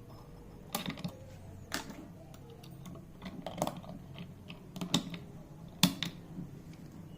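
Irregular sharp clicks and knocks of metal tools and engine parts being handled, about eight in a few seconds, with the loudest one near the end.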